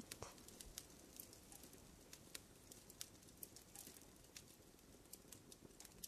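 Faint campfire crackling: scattered, irregular soft pops and snaps over a low hiss.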